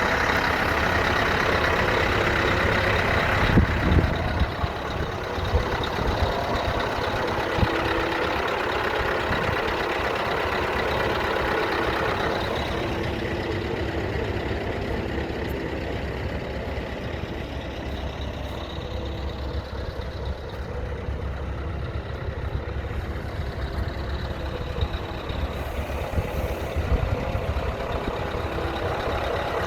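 Scania R500 truck's diesel V8 engine idling steadily, with a few sharp knocks a few seconds in.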